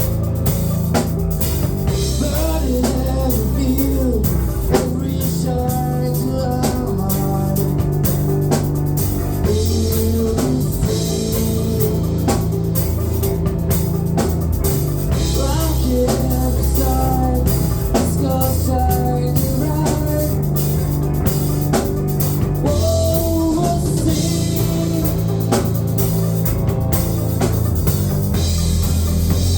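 A rock band playing live: drum kit, bass and electric guitar, with a voice carrying a wavering melody over them.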